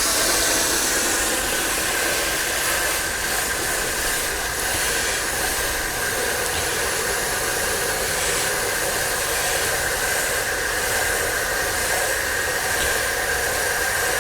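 Pressure washer spraying water onto a car, a steady hiss with a faint steady whine running under it.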